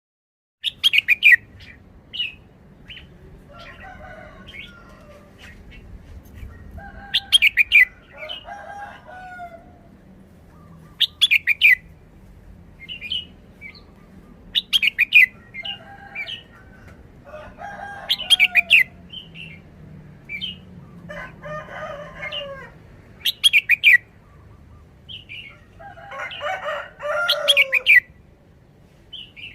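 Red-whiskered bulbul singing: short, loud, high-pitched chirped phrases repeated every few seconds, with softer, lower warbling notes between them.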